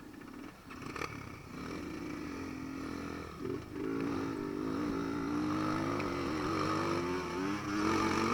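Enduro dirt bike engine running with the throttle worked on and off, its pitch wavering up and down, getting louder from about two seconds in and loudest near the end.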